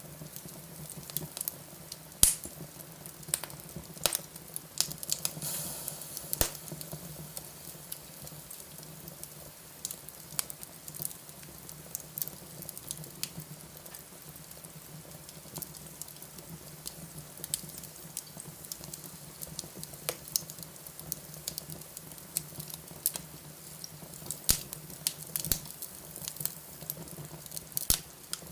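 Wood fire crackling in a fireplace: irregular sharp pops and snaps over a soft hiss, with a low steady hum underneath.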